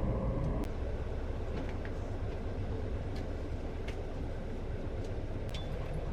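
Steady low rumble of a Marcopolo Paradiso 1800 DD double-decker bus on a Scania chassis, driving, heard from inside the cabin, with a few faint clicks and rattles.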